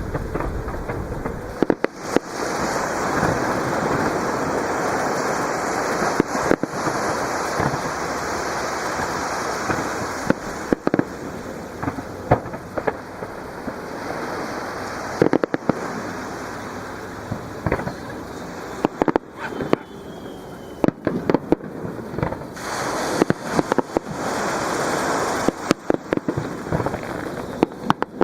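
Aerial fireworks shells bursting in an irregular series of sharp bangs, with dense crackling, over a continuous hiss of surf washing on the shore.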